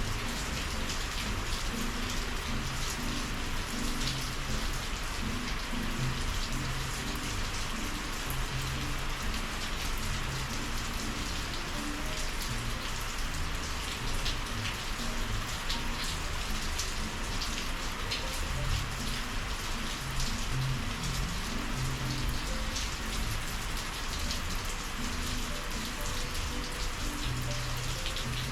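Steady summer monsoon rain falling and pattering on surfaces, an even, unbroken hiss with scattered drop ticks.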